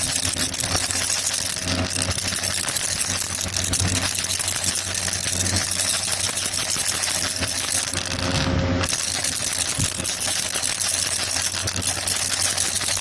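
Baby rattle being shaken continuously, a dense, steady clattering of quick clicks.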